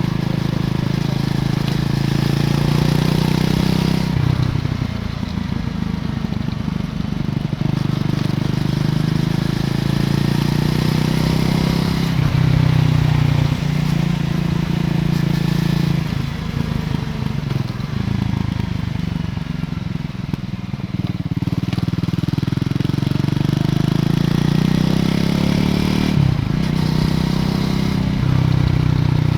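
Triumph Scrambler 400 X's 398 cc single-cylinder engine through its stock exhaust, under way, with the engine pitch rising and falling several times as the throttle opens and closes.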